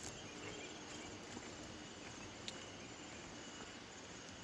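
Faint, steady chirring of insects in rural outdoor ambience, with one small click about two and a half seconds in.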